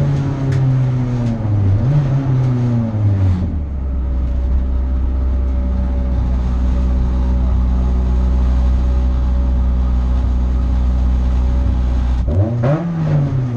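Renault Clio hillclimb car's engine heard from inside the cabin, the revs falling as the car slows, with a short blip about two seconds in. It then settles to a steady low drone, and near the end the revs rise briefly and fall again.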